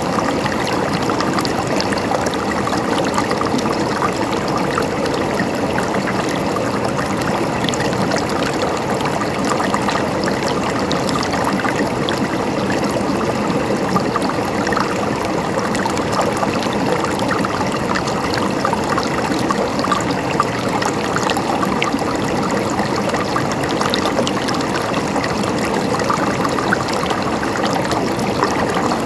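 Steady gurgling of flowing water, a constant rushing with small splashes and trickles running through it.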